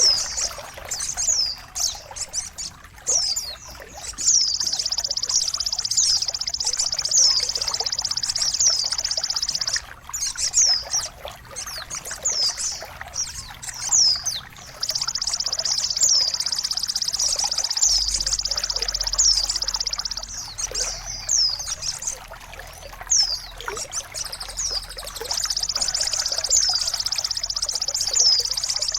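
A small songbird singing sharp falling chirps and three long, buzzy high trills of several seconds each, over a steady trickle of running water. The track is a bird-song tutoring and therapy recording, played to get a caged bird that has stopped singing to sing again.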